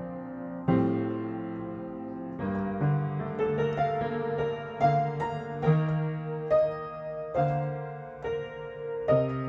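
Gentle solo piano background music: a held chord, then a slow melody of single notes with a steady bass line.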